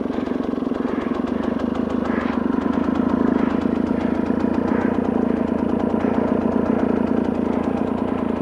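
Motorcycle engine idling steadily with an even, rapid firing pulse, the bike standing in gear with its clutch held in by a clutch holder.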